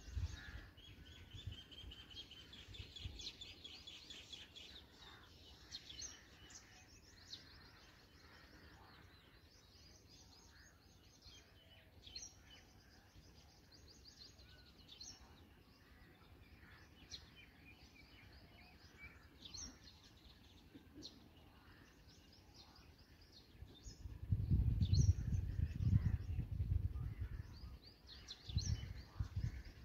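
Birds calling in short high chirps and whistled notes scattered throughout, with a fast trill about a second in. A low rumble comes in about 24 seconds in and again near the end.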